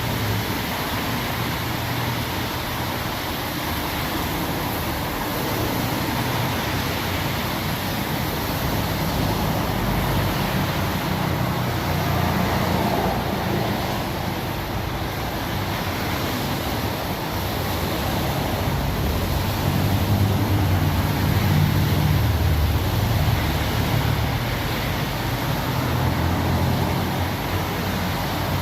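Steady noise of heavy rain, with an uneven low rumble underneath that swells and fades.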